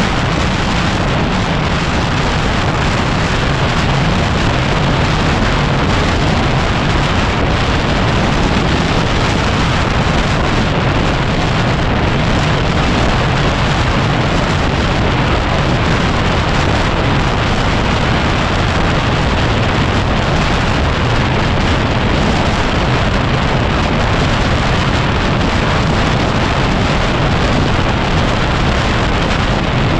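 Heavy, steady wind noise buffeting the microphone, a constant rushing rumble that covers the running of a Yamaha WR250R's single-cylinder four-stroke engine on the move.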